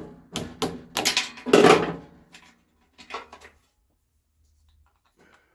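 Clatter and knocks of metal parts being handled while working on a machine's battery mount: a quick run of sharp knocks, the loudest about one and a half seconds in, a couple more about three seconds in, then quiet.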